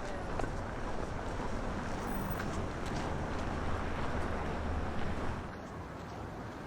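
Strong wind buffeting the microphone during a blizzard: a heavy low rumble under a rushing roar of wind, easing a little about five seconds in.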